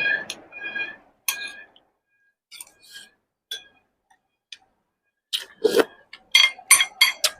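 Tableware clinking while eating: chopsticks and spoon tapping ceramic bowls and dishes. Scattered sharp clinks with a brief ring, a few in the first half, then a quick run of them over the last two seconds.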